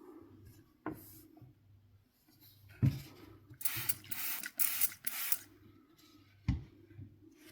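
Hands working on a PlayStation 4 on a bench: three sharp knocks of parts or tools being set down or handled, and about halfway through a run of four short hissing, rasping strokes.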